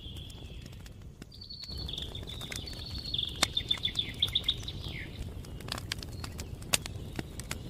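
Small birds singing, with a fast trill of rapidly repeated notes in the middle, over scattered crackling pops from a campfire.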